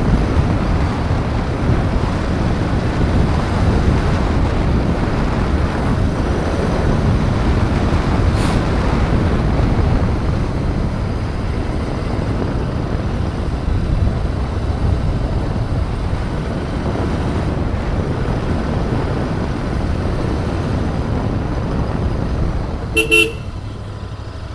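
Riding noise on a Royal Enfield Interceptor 650 motorcycle under way: steady wind rush mixed with the engine and road noise. A short vehicle horn toot sounds near the end.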